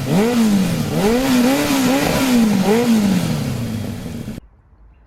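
Harley-Davidson V-twin motorcycle engine being revved in a series of throttle blips, its pitch rising and falling several times, then cutting off suddenly near the end.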